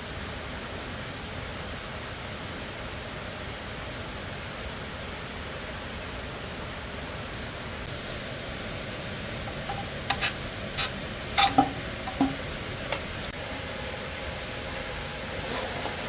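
Steady hiss, with a quick handful of sharp clicks and light knocks about two thirds of the way through, a few of them briefly ringing.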